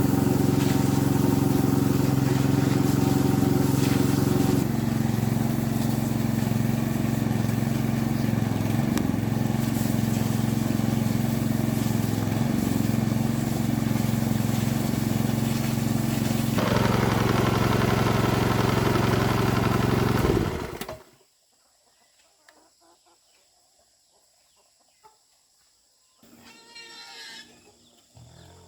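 Small engine of a farm water pump running steadily after repair, its tone shifting slightly a few times, then cutting off abruptly about three-quarters of the way through. A brief animal call sounds near the end.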